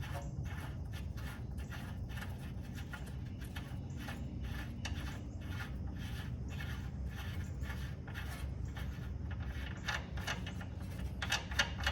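A hand wrench working a nut or bolt on truck suspension: a long run of short metal clicks and scrapes, a few a second, over a low steady hum, with a quicker cluster near the end.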